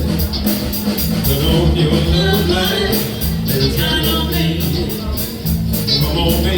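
A live band playing a song: a steady beat with cymbals, a bass line, and a singing voice over it.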